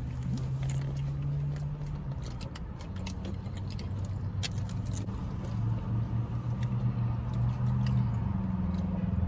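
Steady low hum of a running vehicle engine, shifting a little in pitch, with scattered light clicks and rustles of food and drink being handled.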